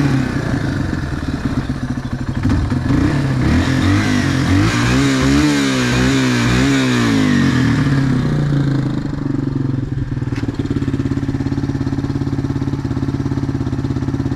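1999 Yamaha TTR225's single-cylinder four-stroke engine running. Its pitch rises and falls several times through the middle, then it settles into a steady, even idle.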